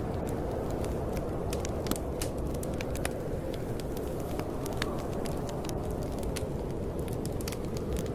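Wood fire crackling, with frequent sharp irregular pops, over a steady low rush of storm wind.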